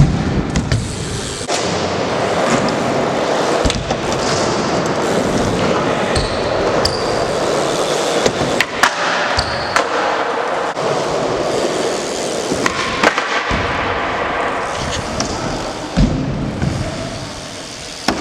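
BMX bike rolling across skatepark ramps, the tyres giving a continuous rolling noise, with several sharp knocks from landings and the bike striking the ramp edges.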